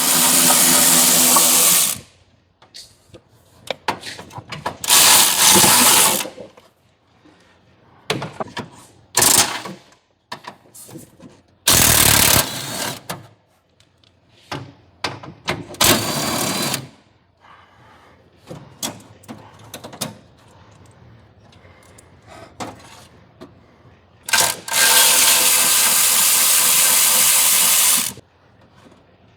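Handheld impact gun running on bolts in repeated bursts: about six spells, the longest near the end lasting three to four seconds, with quieter clinks of handling in between.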